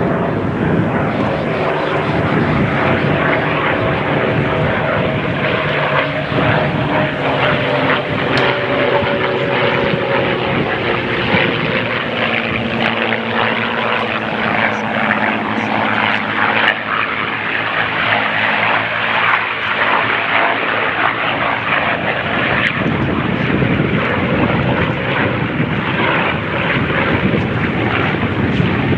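Piston-engined propeller warbirds flying by, a loud, steady engine drone whose tones slowly fall in pitch as the aircraft pass.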